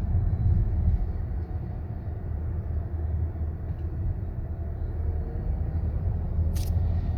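Mazda CX-90 PHEV driving with a low, uneven grinding rumble, the noise the owner reports between 20 and 40 mph. A brief sharp click comes near the end.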